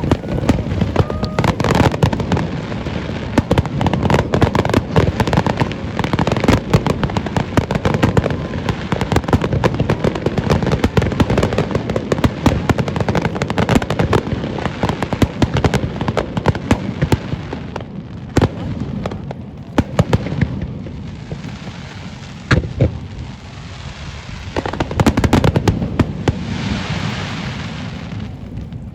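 Aerial fireworks bursting in quick succession, a dense run of bangs and crackling that thins out for a few seconds after the middle. Near the end comes a loud spell of hissing crackle.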